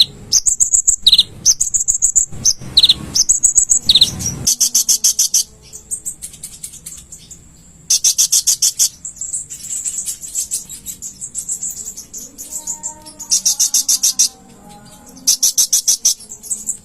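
Konin (kolibri ninja sunbird) singing: rapid trills of high, sharp chips in bursts about a second long, repeated with short pauses. Over the first four seconds, short upswept whistles come between the trills.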